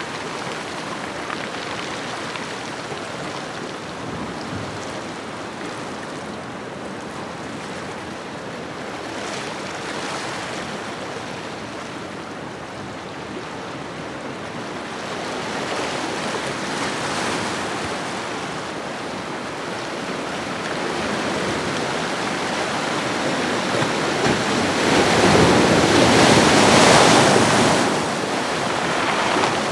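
Ocean waves washing onto a shore: a continuous surf wash that swells and eases, building to a louder wave near the end that breaks and then falls back.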